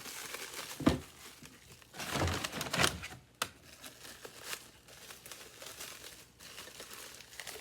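Packing wrap being pulled off and crinkled by hand while a part is unwrapped, with a sharp knock about a second in and a louder stretch of crinkling about two seconds in.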